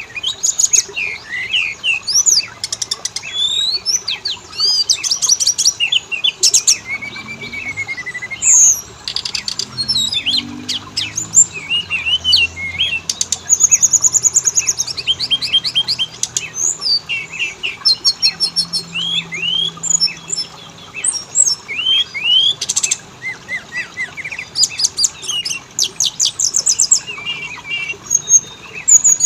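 Oriental magpie-robin song: a dense, varied run of clear whistles, slurred rising and falling notes and rapid trills, going on without a break.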